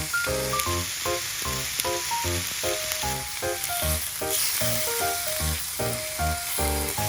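Food frying in a pan with a steady sizzling hiss, under background music with a steady beat.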